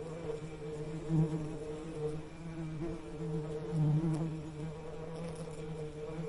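Bees buzzing: several low, overlapping wingbeat hums that waver in pitch and swell, louder for a moment about a second in and again around four seconds.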